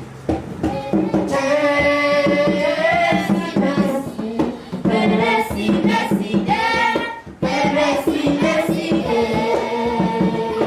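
A choir singing a Yoruba Christmas song, several voices together over a steady beat.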